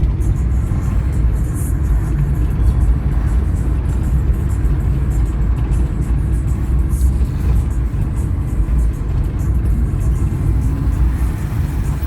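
Steady low rumble of a moving vehicle's engine and road noise, heard from inside the vehicle, with music playing.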